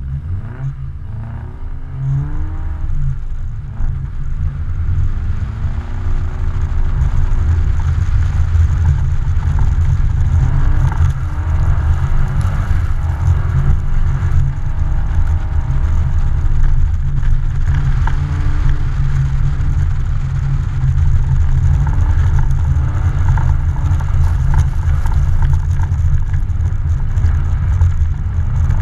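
Car engine revving up and down over and over as the car slides sideways on ice, under a heavy low rumble. It grows louder over the first several seconds as the car picks up speed, as heard from a camera mounted on the outside of the car.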